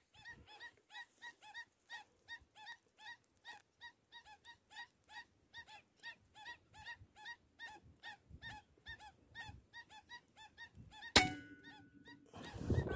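Lesser whistling ducks calling: short, thin whistled notes repeated quickly, about three or four a second. About 11 seconds in comes a single sharp crack.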